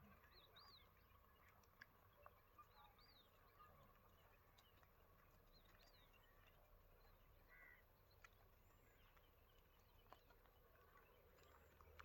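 Very faint rural ambience with scattered short bird chirps that rise and fall in pitch, and a few faint sharp clicks.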